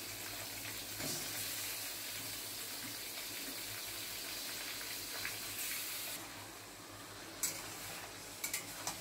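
Chicken pieces and chopped onion sizzling in hot oil in a steel kadai: a steady hiss that eases off about six seconds in, with a few short clicks near the end.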